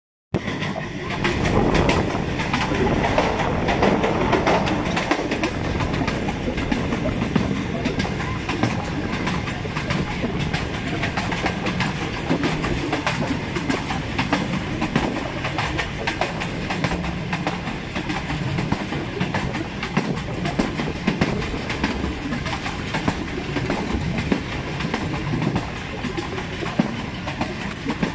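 Pakistan Railways passenger coach running at speed, heard from its open door or window: a steady rush of the moving train with a dense clatter of wheels over the rails.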